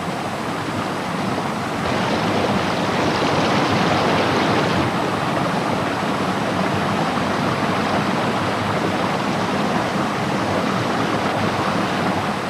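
Rushing water: a steady, dense wash of noise that swells about two seconds in and then holds.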